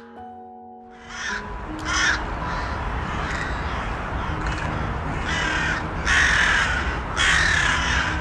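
Crow-family bird giving harsh caws, several in a row from about a second in, the longest ones near the end. Under them run a low, even rush of outdoor noise and soft background music.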